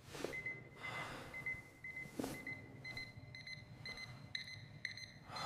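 Hospital patient monitor beeping softly: short high beeps at one pitch, about two to three a second, with a higher tone joining about halfway through and a few faint swishes.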